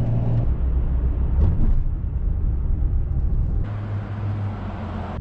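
Steady low rumble of a car driving, road and engine noise as heard inside the cabin. About three and a half seconds in, the sound changes abruptly.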